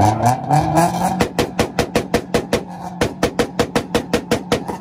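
Car engine revving up, then held on a two-step launch-control rev limiter, popping and banging evenly about seven times a second.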